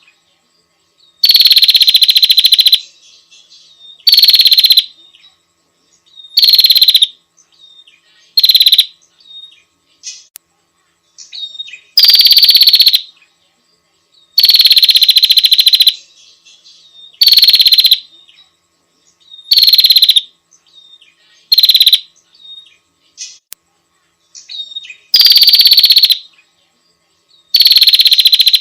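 Female prinia (prenjak) giving its rapid, high rattling call over and over, in bursts of half a second to about a second and a half every two to three seconds.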